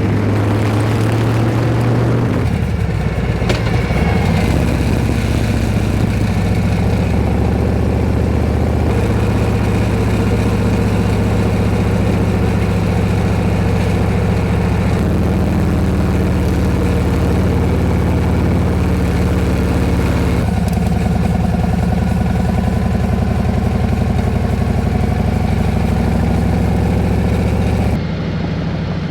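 Harley-Davidson Road King Special's V-twin engine running on the road, its note holding steady and then shifting in pitch several times as the speed changes. The sound changes abruptly about a second before the end.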